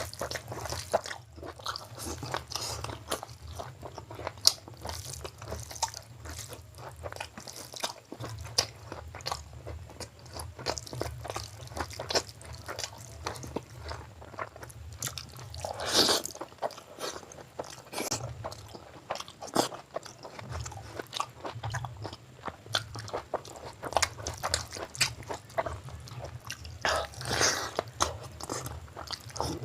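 A person chewing and biting food at close range, eating chicken gizzard curry with mutton biryani: a steady run of small wet clicks and crunches, with louder bites about halfway through and near the end.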